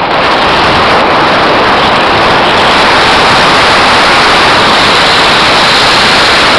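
Loud, steady rushing noise of wind and trail on the camera microphone of a mountain bike during a fast downhill run.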